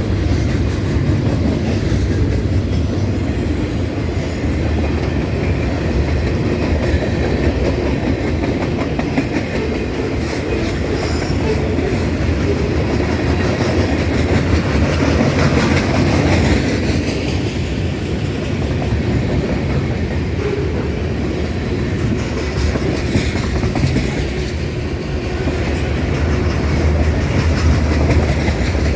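A train passing, its wheels rumbling steadily on the rails for the whole stretch, with light clicking over the track.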